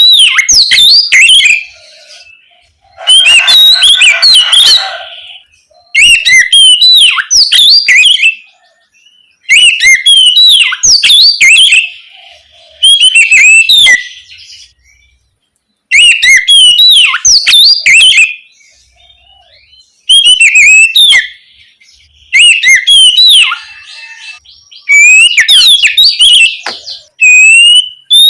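Oriental magpie-robin (kacer) singing its loud, clear whistled 'ngeplong' song in short phrases of a second or two, with brief pauses between, about ten phrases in all. A harsher, rasping phrase comes around four seconds in.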